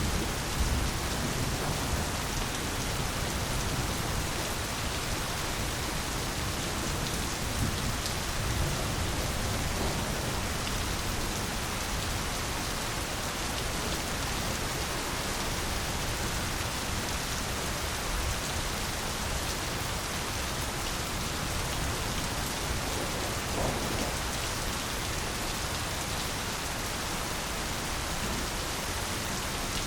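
Steady, continuous rain, an even hiss of many drops, with a low rumble underneath during roughly the first ten seconds.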